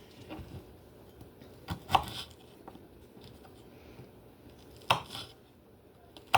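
A kitchen knife chopping food on a cutting board in a few separate, sharp strokes: about two seconds in, about five seconds in, and again at the very end.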